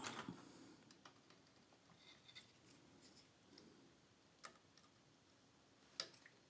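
Near silence broken by a few faint clicks and light taps, one at the start and two more near the end, from a capacitance meter's test probes being set against capacitors on a power-supply circuit board for in-circuit measurement.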